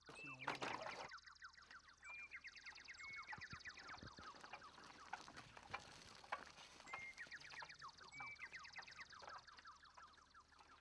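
Birds calling: a faint, repeated descending trill of quick notes, one every second or two, over a steady high warbling, with a few light clicks.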